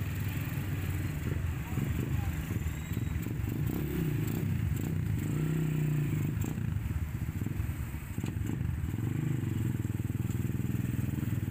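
JCB backhoe loader's engine running, its pitch rising and falling as it revs, dropping briefly about eight seconds in, with some clatter over it.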